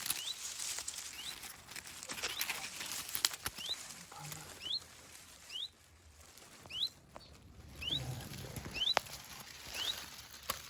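Female chiffchaff alarm-calling close to its nest: a short upslurred 'hweet' repeated every second or so, agitated at an intruder by the nest. Light rustling of reeds and brambles around it.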